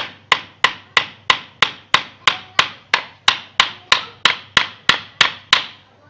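A hammer driving a nail into a wooden cage frame: steady, evenly spaced strikes, about three a second, that stop near the end.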